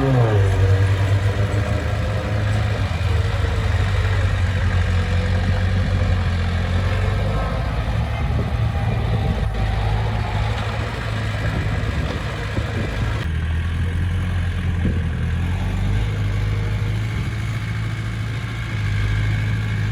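Diesel engine of heavy earthmoving equipment running steadily at low revs, its pitch falling off a rev just as it begins. The engine note shifts about thirteen seconds in.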